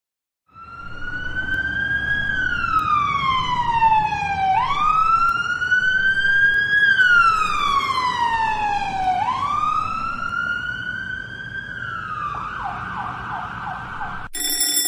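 Police siren wailing, rising and falling slowly three times, then switching to a quick warbling yelp, with a low rumble beneath. It cuts off abruptly near the end into a short steady electronic tone.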